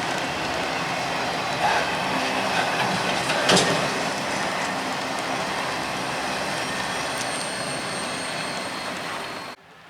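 CPKC freight train's cars rolling past with steady wheel-on-rail noise, with one sharp clank about three and a half seconds in. The sound cuts off abruptly near the end.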